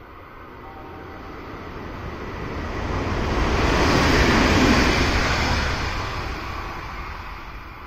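Kintetsu Minami-Osaka Line electric train going past at the station: its noise swells steadily, peaks about four to five seconds in, then fades away.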